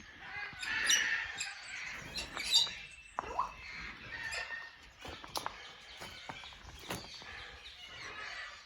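African grey parrots in their aviary chirping and calling: scattered short chirps and clicks, with one rising whistle about three seconds in.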